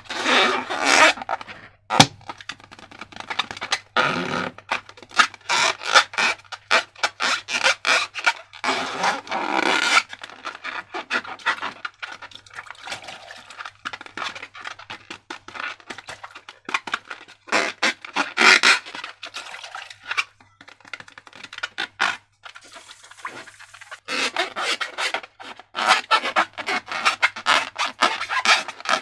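Slime being squished and worked by hand: a run of irregular sticky crackles, clicks and squelches, with a couple of short pauses.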